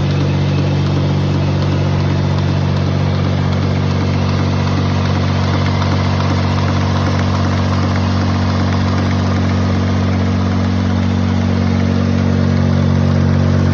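Suzuki Cappuccino EA11R's 657 cc turbocharged three-cylinder engine idling steadily.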